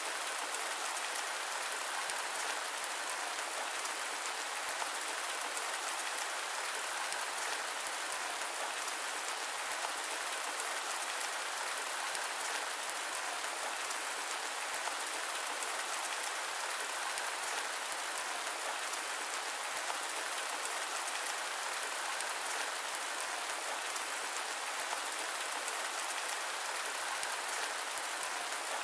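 Steady rain falling, an even hiss with fine pattering drops that does not change.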